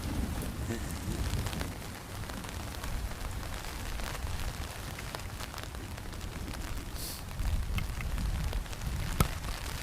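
Rain pattering on a tarp overhead, with many single drops ticking on the fabric and one sharper tick near the end, over a steady low rumble.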